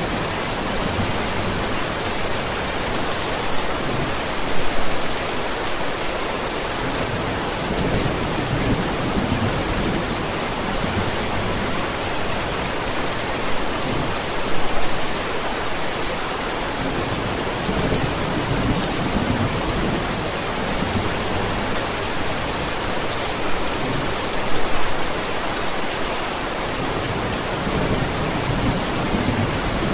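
Steady heavy rain with low rumbles of thunder beneath it. Three brief louder swells come about ten seconds apart: about 5, 15 and 25 seconds in.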